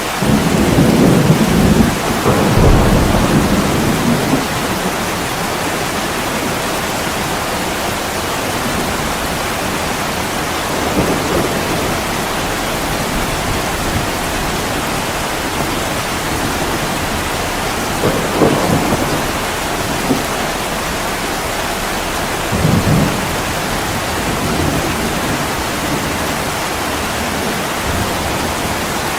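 Heavy rain falling steadily, with a rumble of thunder over the first few seconds and a few fainter low rumbles or thumps later on.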